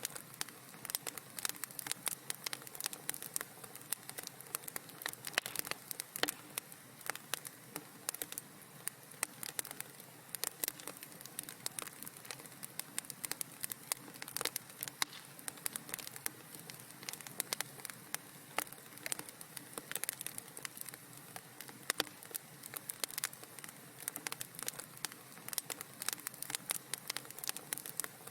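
Wood fire burning in a fireplace, with a dense, irregular run of small sharp crackles and pops over a faint low hiss.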